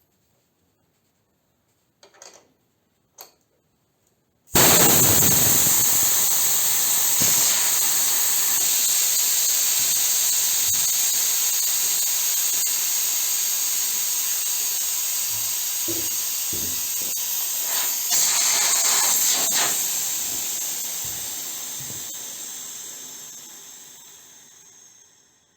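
Compressed air venting with a loud hiss from the SO-7B compressor's pressurised receivers, starting suddenly about four seconds in and slowly fading away as the pressure falls. A few faint clicks come before it.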